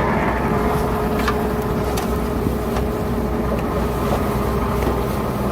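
Diesel engine of heavy earthmoving machinery running steadily under a low rumble, with a few light knocks.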